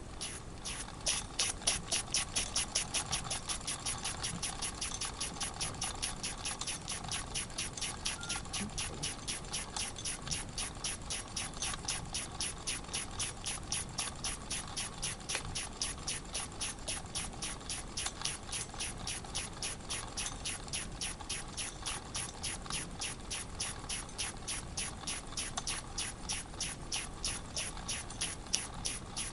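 Wilesco model steam engine ticking over slowly, chuffing steadily about four times a second. Its double-acting cylinder blows steam out underneath each time the valve opens, because a missing screw left a hole in the steam chest, so it is running on only half its strokes.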